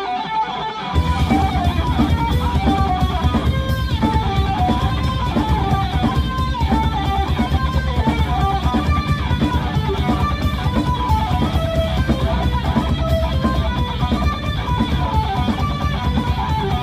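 Rock band playing live: a melodic electric guitar riff, with the full band's bass and drums coming in about a second in and playing steadily.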